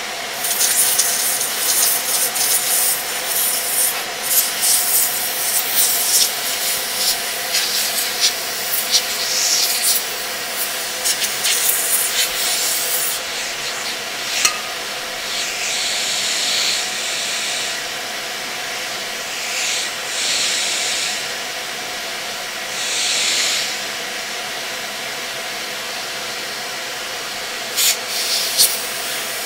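Vacuum cleaner motor running steadily while the nozzle rubs and scratches over the laptop's heatsink, sucking out dust. After about a dozen seconds the scratching stops, and a few short hissing rushes of about a second each follow.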